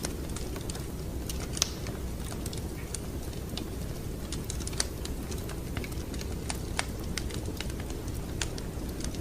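Wood fire crackling in a fireplace: a steady low rumble of flames under irregular sharp pops and snaps, two of them louder, about one and a half and five seconds in.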